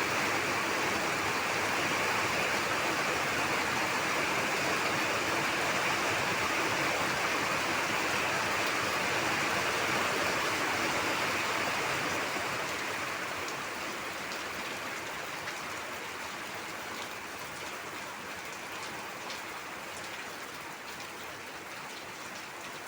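Heavy rain falling in a steady hiss, easing to a lighter level about halfway through, with single drops ticking near the end.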